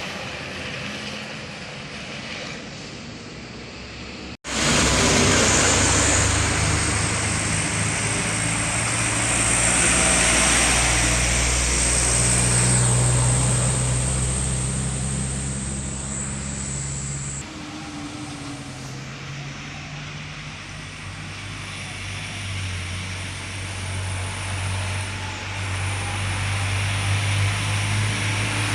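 Heavy truck engines working hard up a steep climb. The sound cuts off abruptly about four seconds in and comes back loud, steps down a little past the middle, then builds again toward the end.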